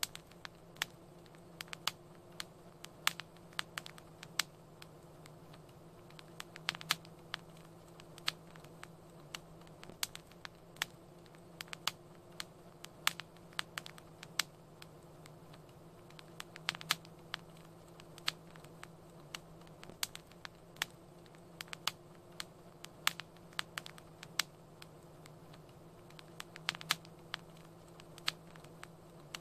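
Wood fire crackling: irregular sharp pops and snaps, a few a second, over a faint steady hum.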